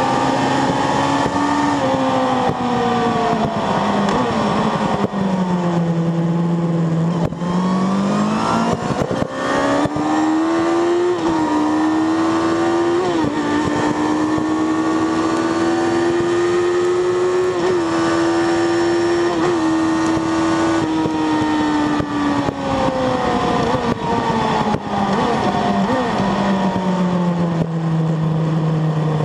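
Sport motorcycle engine at speed. It drops in pitch about five to seven seconds in, then climbs with two quick gear-change dips and holds high. It winds down again over the last several seconds.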